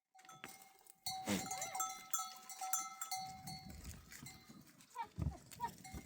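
A flock of goats and sheep bleating, with a livestock bell ringing steadily.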